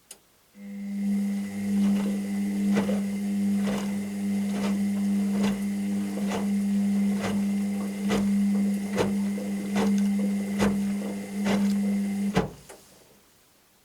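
Washing machine motor turning the drum for about twelve seconds: a steady hum with a regular tap about once a second as it turns. It starts with a click and stops with a louder one, a single drum rotation in the wash cycle.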